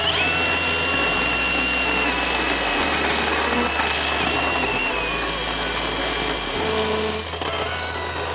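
WoodMizer LT35HD bandsaw mill running, its blade giving a steady high whine through a cut in an ash log, under background music with a steady bass line.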